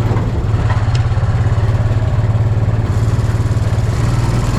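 Small off-road vehicle engine running steadily at an even low pitch.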